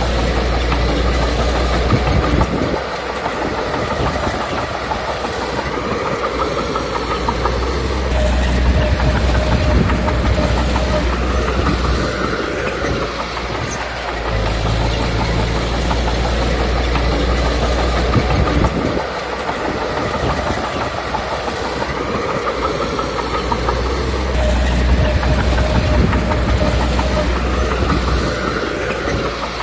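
Komatsu D21P bulldozer's diesel engine running under load with its steel tracks clanking, the engine's low rumble swelling and easing every several seconds as it pushes stone and backs off.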